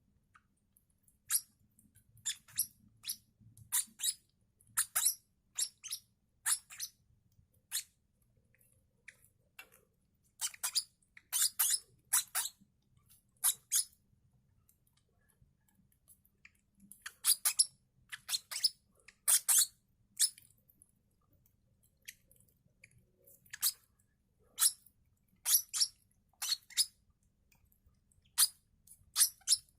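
Lovebird chicks cheeping: short, high, squeaky calls in quick clusters, with a few brief pauses between the bouts.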